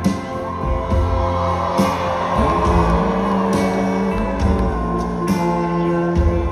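Live band playing a slow instrumental passage of a folk-rock ballad: held guitar notes over bass, with a drum and cymbal hit roughly every two seconds.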